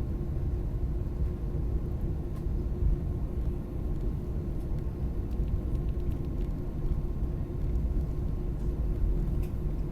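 Airbus A320 cabin noise: a steady low rumble with a constant hum throughout, and a few faint ticks.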